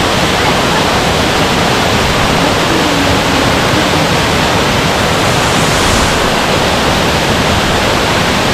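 Girlevik Waterfall: a loud, steady rush of falling water.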